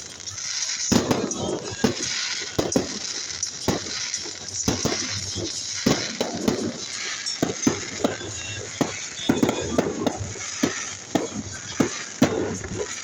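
Aerial fireworks going off in a rapid, irregular barrage of bangs and crackles, several a second, with no let-up.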